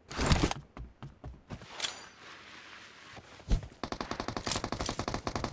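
Video-game gunfire: a burst and a few scattered shots with a heavy thump, then a fast, even run of automatic-weapon fire, about nine shots a second, starting near the end.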